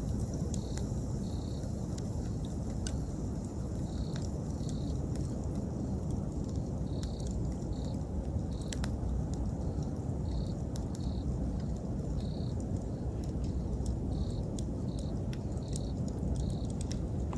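Wood campfire crackling, with scattered sharp pops over a steady low rush. An insect chirps in short high notes about once a second.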